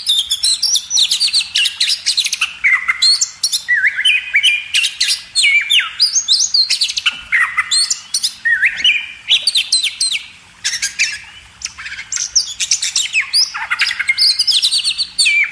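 Birds chirping and calling: rapid runs of high chirps and short up-and-down whistles, nearly without pause, easing briefly about ten seconds in before picking up again.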